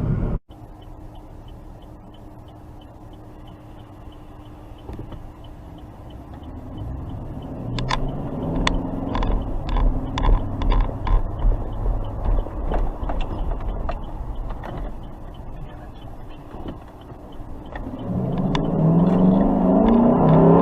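A car engine running and accelerating, its pitch rising around the middle and again, louder, near the end. Scattered sharp clicks come during the first acceleration.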